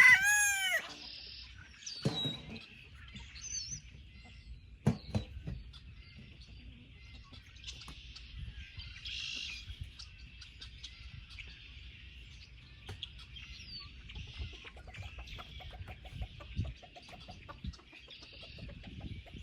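Backyard chickens clucking and calling, opening with the loud falling end of a rooster's crow in the first second. A few knocks come about two and five seconds in.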